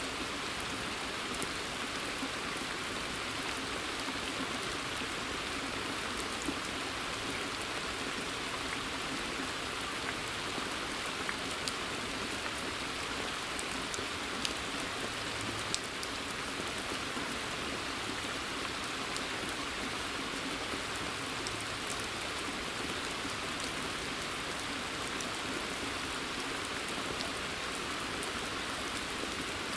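Steady rain falling on a forest pond and its surrounding foliage, an even hiss with occasional louder individual drops ticking through it.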